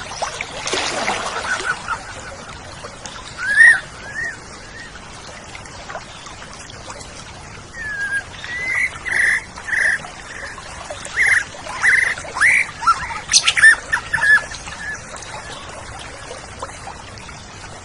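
Oriental magpie-robin (kacer) singing: a falling sweeping note about a second in, then a run of short, clear whistled notes and chirps, densest and loudest in the second half, over a faint steady hiss.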